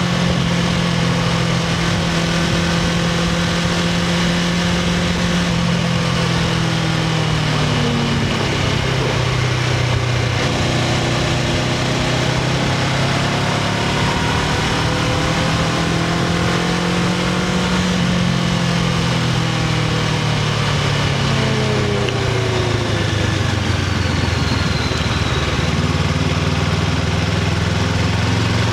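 Honda CBR500R's 471 cc parallel-twin engine running through the stock exhaust, its pitch slowly rising and falling with small changes in engine speed rather than sharp revs.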